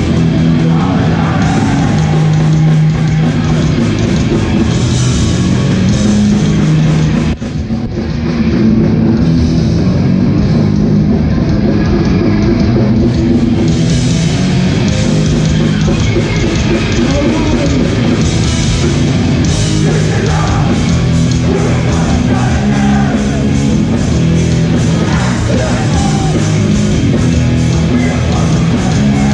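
Hardcore punk band playing live at full volume: distorted guitars, drum kit and shouted vocals. A brief break about seven seconds in, then the band comes back in.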